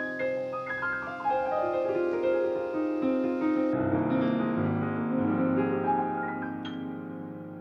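Solo piano music, slow with held, overlapping notes.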